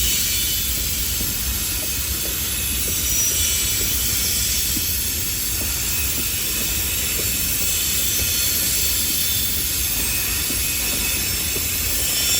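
Train rolling by: a steady low rumble and high hiss of wheels on the rails, with faint irregular clicks.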